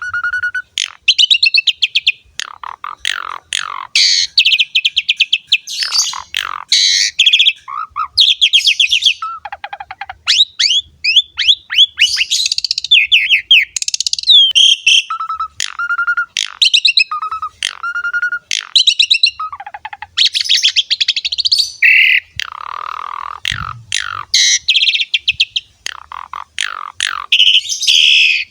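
Javan pied starling singing in full song: a long, varied run of whistled glides, repeated clear notes and rapid rattling chatter, with hardly a pause.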